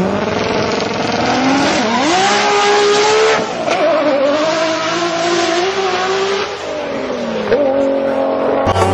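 Nissan GT-R R35 twin-turbo V6 revving hard under load while its tyres squeal, the engine pitch climbing about two seconds in, then dropping and wavering up and down.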